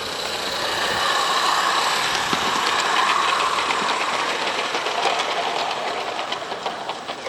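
A 16mm-scale live-steam garden railway locomotive running past: hissing steam and quick clicks from the exhaust and wheels on the track. It grows louder over the first few seconds, then fades as it draws away.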